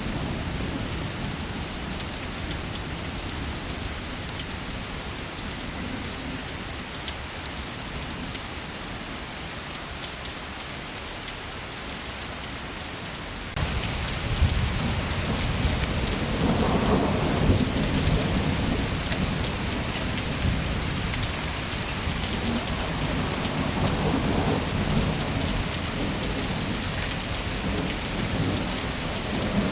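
Steady heavy rain that turns suddenly louder about halfway through, with low thunder rumbling twice after that.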